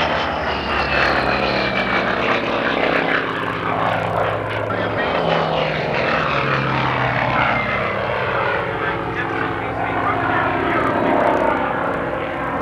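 Piston-engined propeller aircraft flying past low and loud, the engine note dropping in pitch as it goes by.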